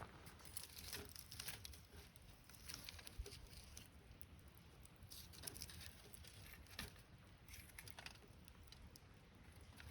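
Faint wood campfire crackling: small, irregular pops and ticks of burning sticks.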